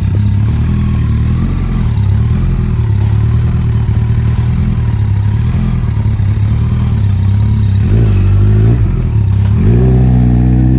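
Motorcycle engine running steadily under way. The revs rise briefly about eight seconds in, then climb again near the end as it accelerates.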